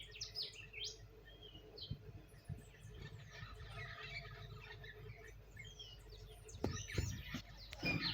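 Parrots chirping continuously, many short high calls and quick falling whistles overlapping. A few louder thumps or knocks come near the end.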